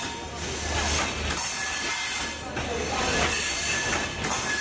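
Bangladesh Railway intercity passenger coaches rolling past, their steel wheels rumbling and clattering on the rails. A thin high wheel squeal comes and goes.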